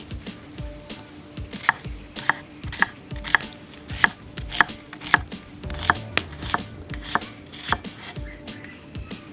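Knife chopping vegetables (onion and carrot) on a board, in a steady rhythm of about two strokes a second, fainter for the first second and a half.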